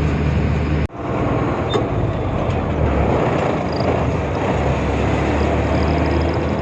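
Tata truck driving on the road: a steady low engine drone with road noise. The sound cuts out briefly about a second in.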